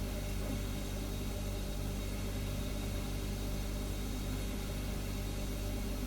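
Refrigerator humming steadily: a constant low drone of several fixed tones under a soft even hiss.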